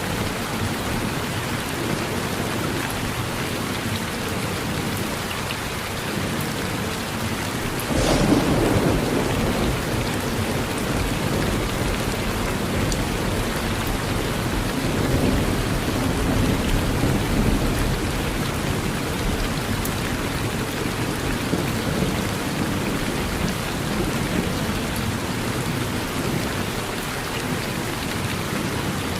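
Steady rain falling on a porch, with a sudden clap of thunder about eight seconds in that rumbles on for about ten seconds before settling back into the rain.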